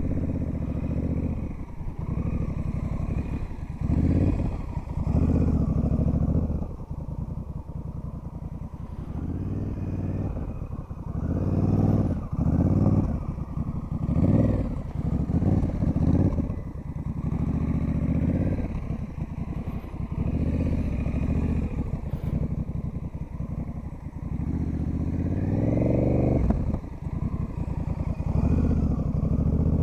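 Motorcycle engine run at low speed through a tight slow-speed drill, the throttle repeatedly opened and eased off every second or two, with a rising rev late on.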